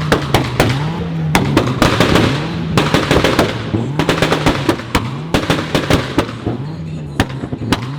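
A tuned car's exhaust crackling and banging with rapid, irregular pops over the running engine, the pops and bangs of an overrun or anti-lag tune.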